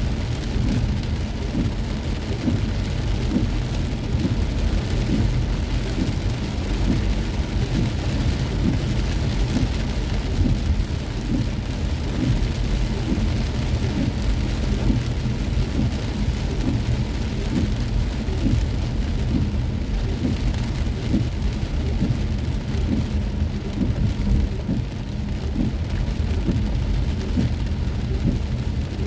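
Heavy rain pattering on a car driving through a downpour, with many small drop ticks over a steady low rumble.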